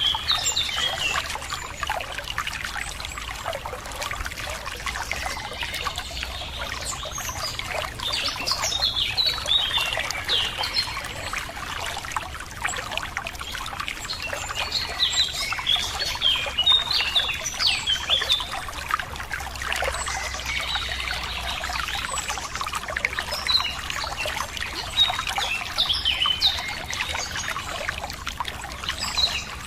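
Running water flowing steadily, with several birds calling throughout in short, high notes.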